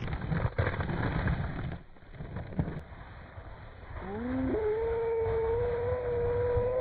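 A sled sliding fast over icy snow with a rough scraping rush. About four seconds in, the rider lets out one long held yell that slides up in pitch and then stays steady.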